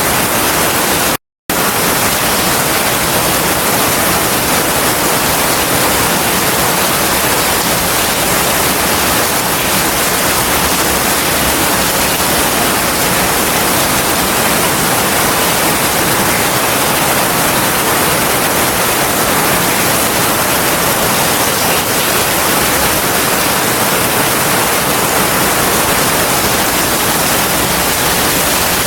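Heavy rain as a dense, steady hiss. The sound cuts out completely for a split second about a second in.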